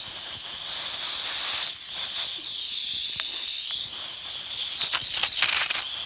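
Steady high-pitched insect chirring over a light hiss, with a few sharp snaps and crackles, clustered about five seconds in.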